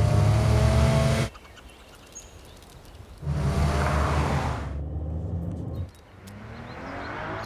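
Car engines and road noise from vehicles driving by, loud in two stretches that cut off abruptly, with a slowly rising engine sound near the end.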